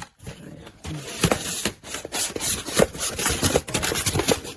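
Handling and rummaging of packs of cat food in a cardboard box: irregular rubbing and scraping with small knocks and clicks.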